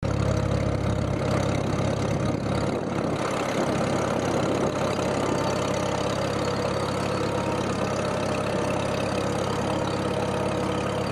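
Farm tractor engine running at a steady speed.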